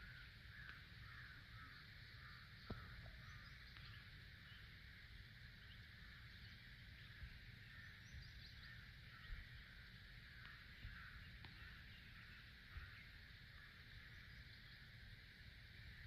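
Faint chirping and twittering of many small birds together, over a low rumble, with a few soft clicks.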